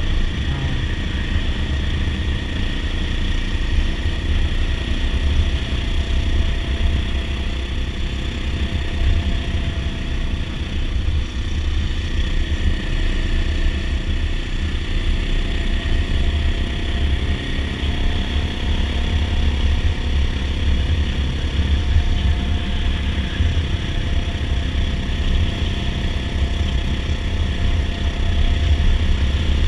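Dirt bike engine running steadily at an even speed, its note drifting only slightly, over a strong low rumble.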